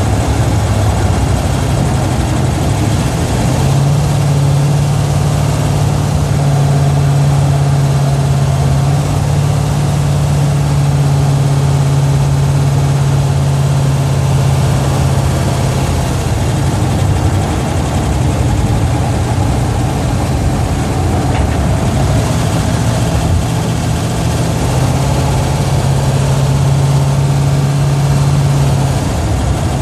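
A Plymouth Duster's Chrysler 440 big-block V8 running steadily while the car is driven, heard from inside the cabin as a loud, deep, even drone with small shifts in pitch and level.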